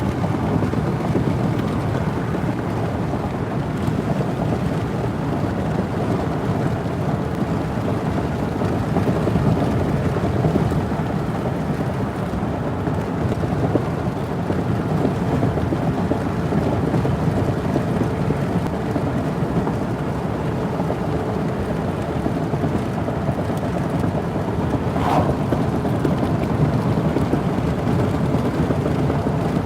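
Steady road and engine noise inside a moving vehicle's cabin, with one brief high-pitched chirp near the end.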